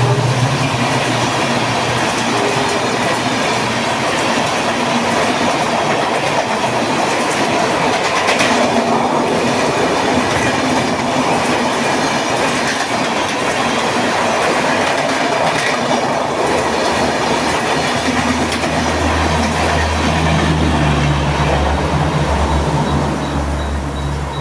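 The coaches of the Yeswantpur–Bikaner Express pass close by at speed, with a continuous loud rush of wheel-on-rail clatter and rattle. About three-quarters of the way through, a low steady hum joins the noise, and near the end the sound begins to fade.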